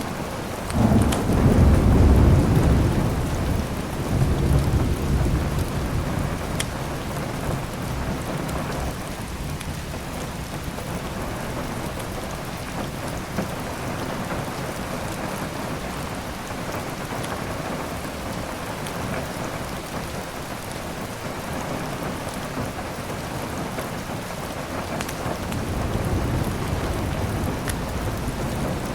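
Steady heavy rain with a loud rumble of thunder starting about a second in and fading over several seconds; a softer rumble rises near the end. A few faint fireplace crackles sound now and then.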